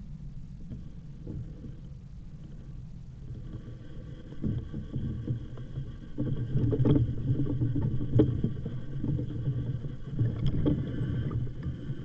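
Wind buffeting the microphone and tyre rumble from a moving e-bike. The rumble grows louder and more uneven about four seconds in, when a faint steady whine also comes in.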